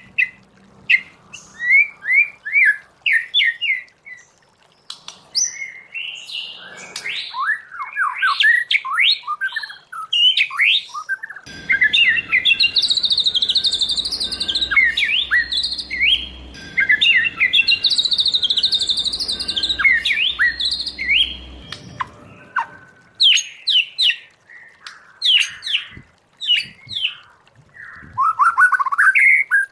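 White-rumped shama singing a long run of varied, fast phrases of whistled and sweeping notes. A denser, noisier passage of song runs through the middle.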